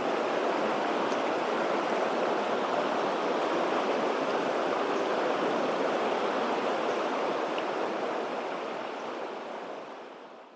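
Mountain stream water rushing steadily, fading out near the end.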